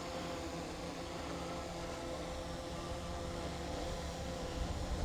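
Small DJI camera drones' propellers humming steadily in hover, with wind rumbling on the microphone.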